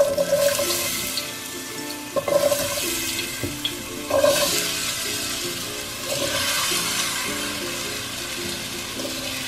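Diced raw potatoes sizzling as they drop into hot oil in a pot. The sizzle surges several times as fresh handfuls slide off the cutting board.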